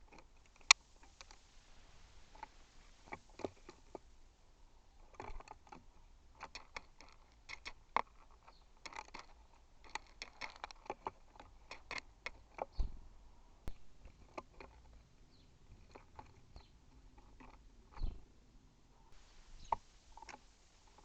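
Birds feeding on a camera-fitted bird feeder: irregular sharp taps and clicks of beaks pecking seed and feet on the feeder close to the microphone, some in quick flurries, with light crunching of seed.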